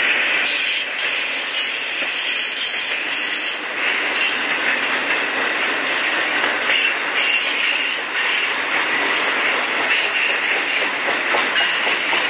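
Intermodal freight cars rolling past on steel wheels: a steady, continuous noise of wheels running on the rails.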